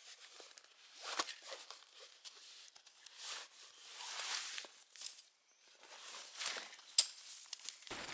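A hiker's footsteps through forest undergrowth, irregular steps brushing through vegetation, with one sharp click about seven seconds in.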